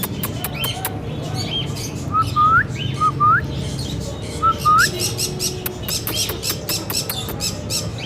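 Indian ringneck parrot calling: short sharp high chirps, three loud rising whistles at about 2, 3 and 4.5 seconds in, then a fast run of chirps from about 5 seconds in.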